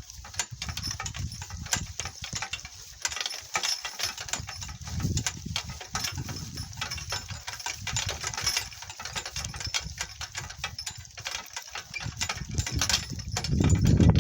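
Donkey cart rattling and clattering over rough, bumpy ground, a dense run of knocks and clicks over a low rumble. A louder low rumble builds near the end.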